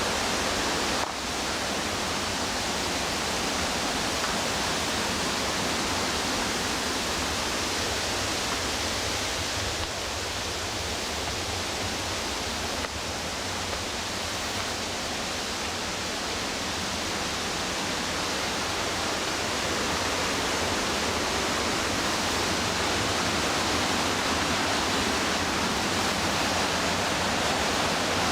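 Whitewater of the McKenzie River rushing steadily, a dense, even noise with no let-up.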